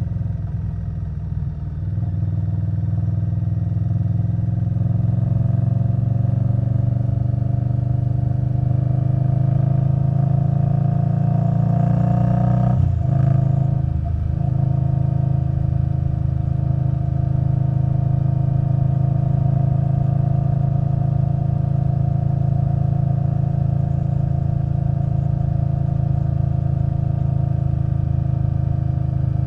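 2021 Indian Scout Bobber Twenty's V-twin through a V&H Twin Slash exhaust, rising in pitch for about ten seconds as the bike accelerates, a short break about halfway through at a gear change, then a steady cruising note.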